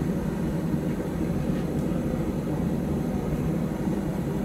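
Forge running with a steady low rushing noise while a knife blade heats in the fire.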